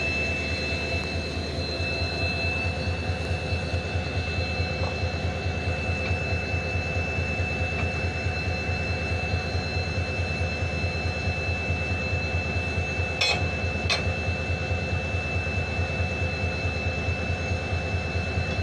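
WDP4D diesel-electric locomotive's 16-cylinder EMD 710 two-stroke engine running steadily with a low, even throb and a steady high whine. Two short, sharp metallic clanks come about half a second apart, about 13 seconds in.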